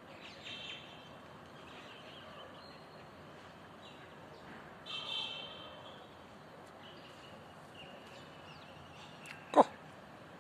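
Faint bird calls and chirps: short, high calls about half a second in and about five seconds in, with softer chirps between. A single sharp, loud knock near the end.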